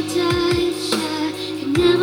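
Electronic music with a held, singing melody and deep kick drums that drop in pitch, played back through a pair of Sharp RSP-ZA262WJZZ two-way TV speakers (midwoofer and full-range drivers in a ported box) as a sound test.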